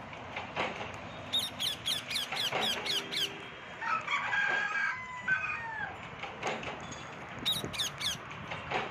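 Parrots calling: a quick run of about eight sharp, high chirps, then a longer warbling call, and three more chirps near the end, over a steady background hiss with a few clicks.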